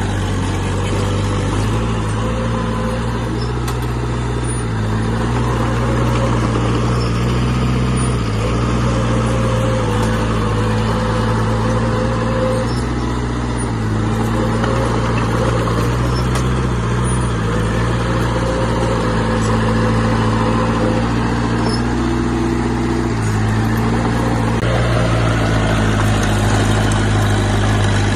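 Heavy diesel engine of earthmoving equipment running steadily under load, its pitch shifting up and down a few times as the work changes.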